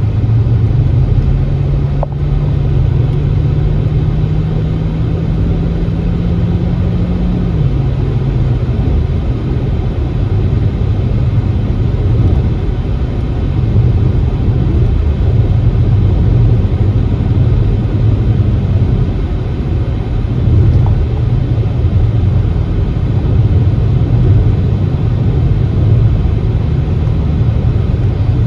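A car being driven on a backroad, with a continuous low engine and road rumble. A steady engine hum rises slowly in pitch, then drops suddenly about eight seconds in.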